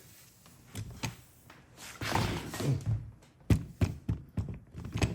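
Knocks and taps of metal lock parts and tools handled on a workbench, with a quick run of sharp knocks in the second half.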